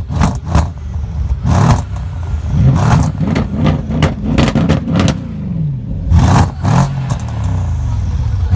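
Mercedes-AMG V8 engine being revved in repeated short blips, its pitch rising and falling many times, each blip loud and sharp.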